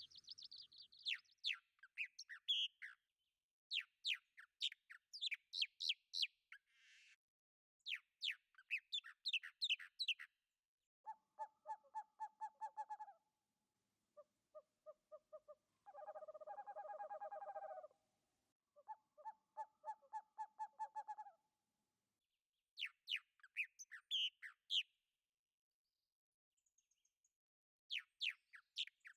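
Birdsong: runs of quick, high chirps, giving way in the middle to three spells of lower, rapidly pulsed calls, then chirping again near the end, with clean silence between phrases.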